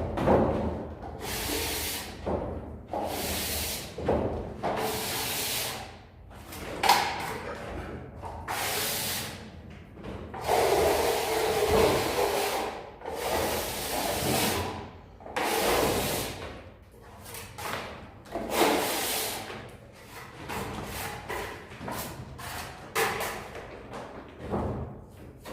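Steel trowel scraping and smoothing fresh gypsum plaster on a ceiling in repeated strokes, about one every second or so, with an occasional sharper knock.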